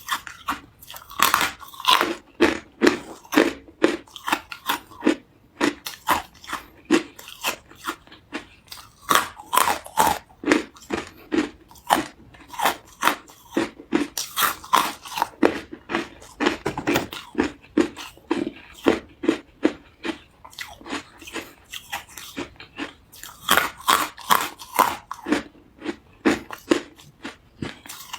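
Close-up chewing of carbonated hard ice: a continuous run of rapid, sharp crunches, with louder clusters of bites every several seconds.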